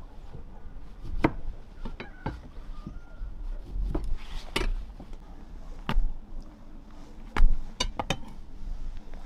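Irregular knocks, taps and clicks of objects being handled, about a dozen sharp strikes at uneven intervals, the loudest one past the middle.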